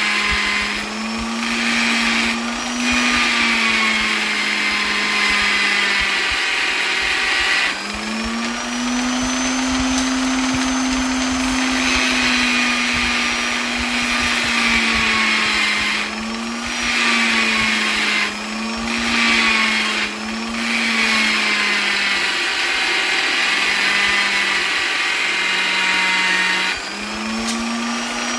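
Electric polisher's motor running continuously with a high whine, its speed dipping and picking back up again several times.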